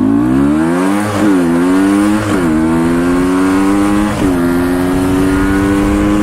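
Suzuki TS185's two-stroke single-cylinder engine accelerating through the gears: its pitch climbs and drops sharply at each upshift, three times, then holds steady.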